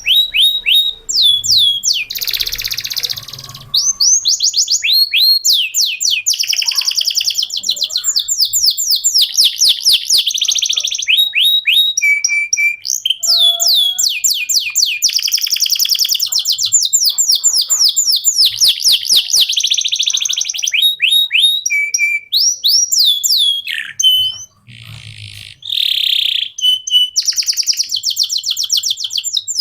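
Canary singing a long, continuous song of fast repeated down-slurred whistles and rapid trills, with a short break about 24 seconds in.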